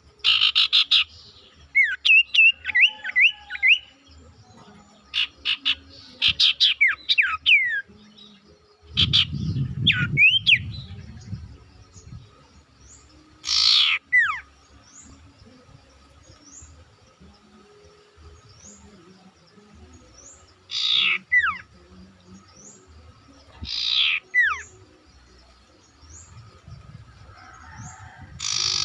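Sirtu songbird calling loudly. It starts with rapid chattering bursts and quick falling whistles, then gives single harsh calls, each ending in a falling whistle, spaced several seconds apart. A brief low rumble comes about nine seconds in.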